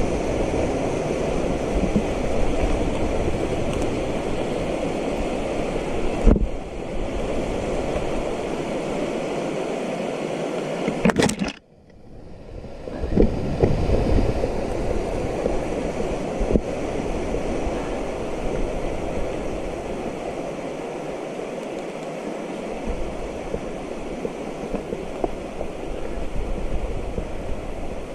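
Steady rushing noise of a mountain bike on the move: wind buffeting the microphone and tyres rolling over the trail. There is a single knock about six seconds in, and the sound briefly cuts out a little before halfway.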